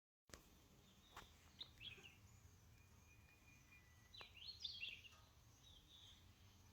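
Faint outdoor background with a few short, high bird chirps, in two clusters: one about a second and a half to two seconds in, a louder one between four and five seconds in.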